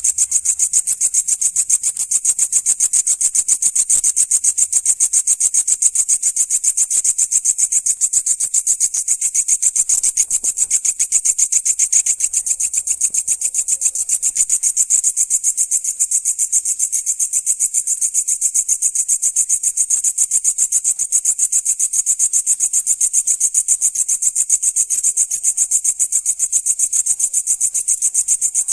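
Grasshopper chirping loudly and without a break: a shrill, high-pitched, rapidly pulsing rasp that keeps one even rhythm throughout.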